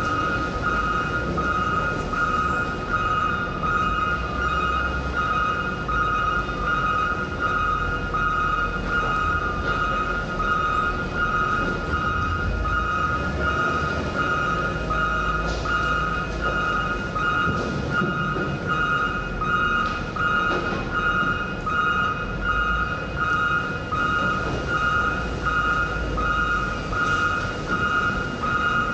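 Heavy vehicle's backup alarm beeping steadily about once a second while reversing, over a low diesel engine rumble.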